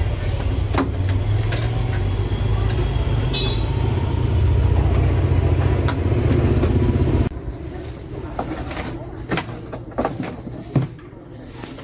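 An engine running steadily with a low hum, cutting off suddenly about seven seconds in, followed by scattered clicks and knocks.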